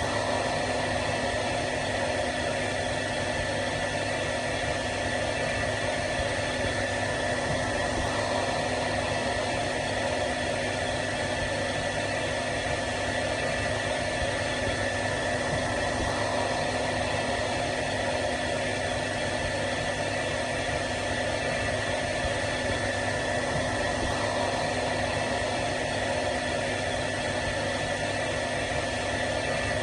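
Hair dryer running steadily: a constant rush of blown air with a steady high whine and a lower hum from its motor.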